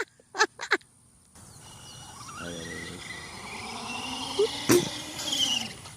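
Radio-controlled truck with a few sharp clicks, then its small electric motor giving a faint whine that rises in pitch, and a single sharp knock near the end; the truck is breaking down, its bearings worn out.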